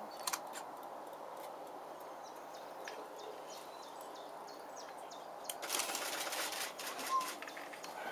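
Short, faint high bird calls over a steady low background hum. About five and a half seconds in, a louder burst of rushing, rustling noise lasts for a second or so, with a short clear note just after it.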